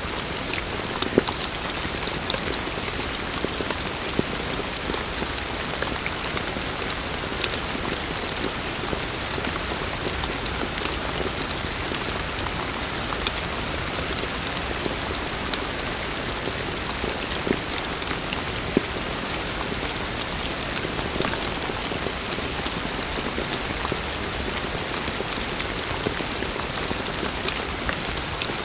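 Heavy rain falling steadily, a dense even hiss with scattered individual drops striking close by.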